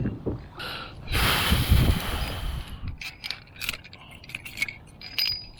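A breathy rushing sound for about a second and a half, then a run of light, irregular mechanical clicks and ticks from the kayak's fittings as it is worked along with the anchor line out.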